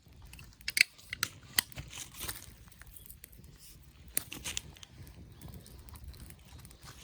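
Sharp snaps and crackles of burning or breaking wood at a campfire: a cluster of loud cracks in the first two seconds, another about four seconds in, with softer crackling and rustling between.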